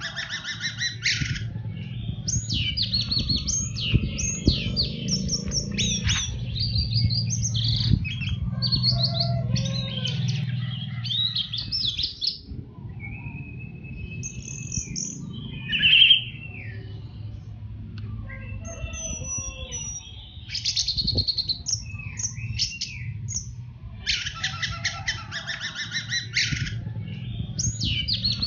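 Orange-headed thrush (anis merah) singing a long, varied 'teler' song of fast rattling trills and whistled phrases, over a steady low background rumble.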